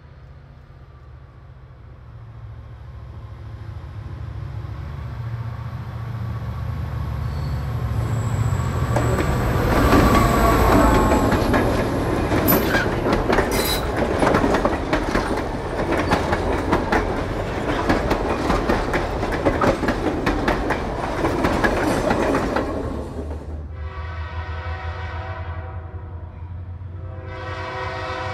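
Diesel-hauled passenger train approaching and passing close. The locomotive's rumble grows louder, and then the coaches pass with wheels clacking over the rail joints and a thin wheel squeal on the curve. About 23 seconds in it changes to a diesel freight locomotive's air horn sounding two long chord blasts.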